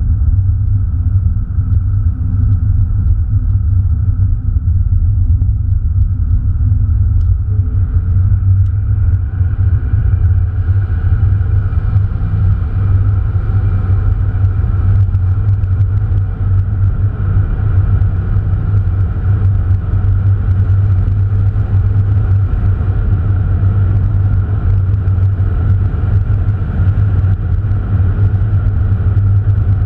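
Opel Astra Bertone Turbo's 2.0-litre turbocharged four-cylinder heard from inside the cabin, running with a steady low drone. A fainter, brighter hiss joins from about ten seconds in.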